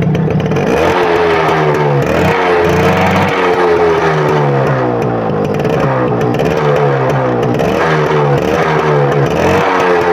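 Suzuki 100cc motorcycle engine revved again and again with the throttle, its pitch rising and falling in a string of blips, showing off the bike's throttle pickup.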